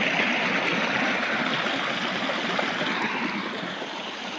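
Waterfall's steady rush of falling water, a continuous hiss that fades a little toward the end.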